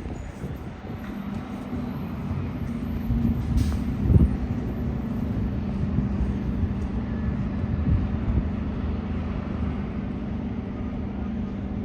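MBTA transit vehicle running with a steady low hum, with a brief thump about four seconds in.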